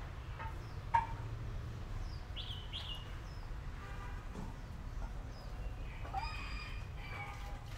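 Birds calling over a low steady rumble: a couple of quick rising chirps, then a longer call about six seconds in. A sharp click comes about a second in.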